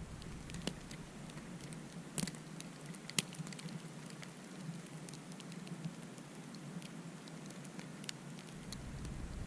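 Wintry precipitation pattering on a surface: a steady soft hiss with scattered light ticks.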